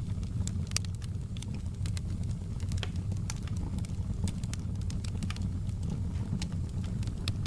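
Campfire burning: a steady low rumble under irregular sharp crackles and pops from the burning wood.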